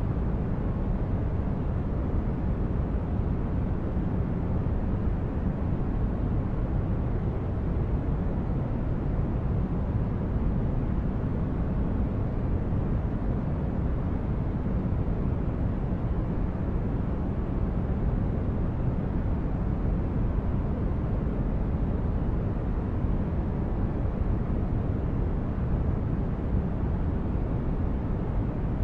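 Steady, unchanging white-noise sleep track, deep in tone: most of its energy sits in the bass and it thins out toward the treble, with no tones or events in it.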